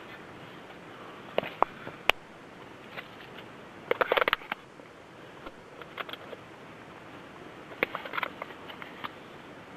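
Scattered clicks and knocks from camp cooking gear being handled, with a short burst of rattling clatter about four seconds in and another cluster of clicks near the end.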